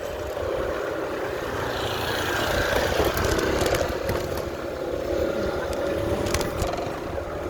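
Wind buffeting the microphone while cycling, with a steady engine hum from passing motor traffic that swells slightly toward the middle.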